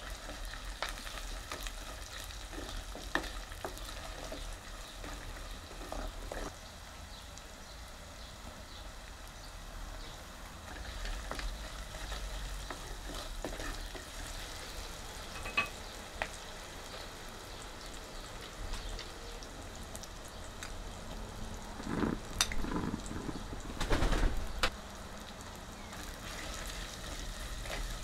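Shallots, garlic, green chillies and curry leaves sizzling in oil in a heavy black pot while a wooden spatula stirs and scrapes them, with scattered clicks and a few louder knocks against the pot near the end.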